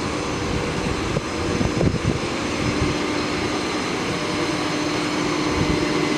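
Ford F750's 6.7-litre PowerStroke diesel engine running steadily: a constant drone with a steady hum.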